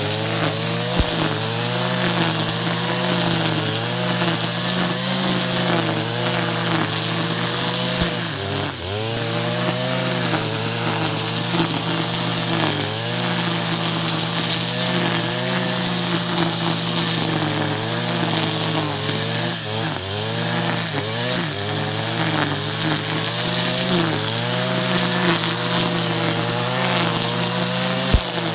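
Stihl FR 480 backpack brushcutter's two-stroke engine running at high speed, its pitch wavering and dipping briefly under load, about 9 and 20 seconds in.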